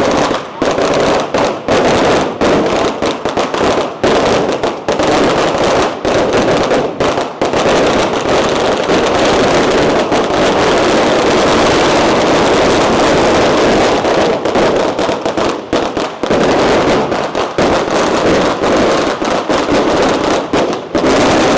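A long string of firecrackers going off in a dense, rapid run of loud cracks and pops, thickest in the middle and cutting off near the end.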